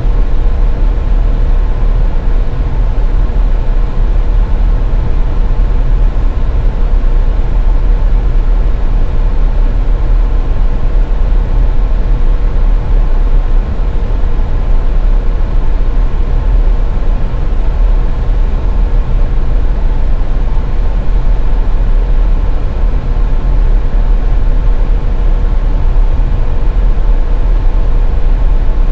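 Car driving on a snowy highway: a steady, loud low rumble of road and engine noise with a faint steady hum, unchanging throughout.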